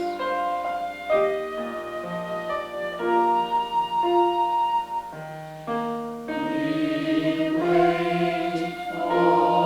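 Choir singing held chords that change about once a second.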